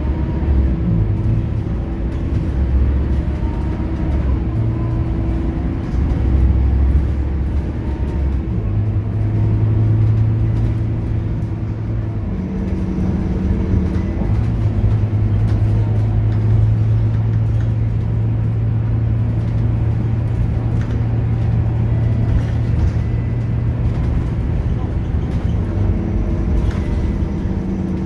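Scania K230UB bus's five-cylinder diesel engine running under way, driving through a ZF automatic gearbox; the engine note steps up and down several times.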